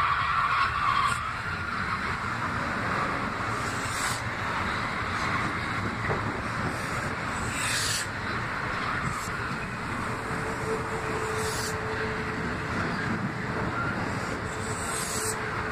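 Metro-North M8 electric multiple-unit train running past close by at speed: a steady rumble and rush of wheels on the rails, loudest in the first second. Short sharp rattles come every couple of seconds, and a faint steady motor whine joins about two-thirds of the way in.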